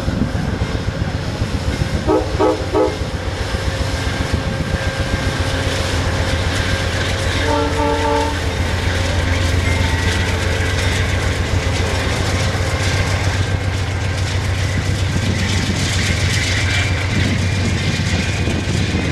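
A train running past with a steady low locomotive drone and rolling wheel noise. Its horn sounds a quick run of short blasts about two seconds in and another run about seven to eight seconds in.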